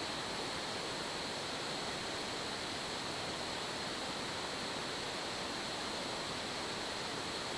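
Steady, even hiss of static from a police scanner between radio transmissions.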